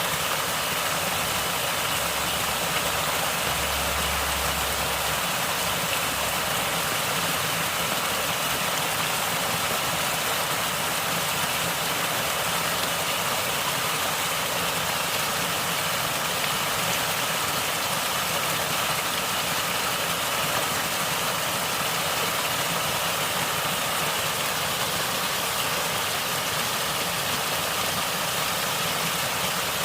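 Natural water flowing and gurgling, a steady, even rushing that does not change.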